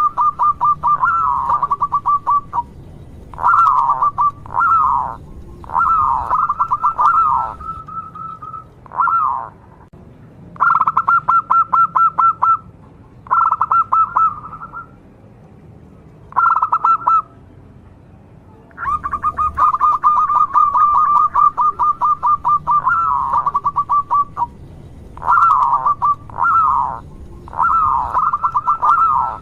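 Zebra dove (perkutut) cooing in repeated song bouts, about nine of them with short pauses between. Each bout is a fast run of clipped coos, often ending in a few drawn-out, falling notes.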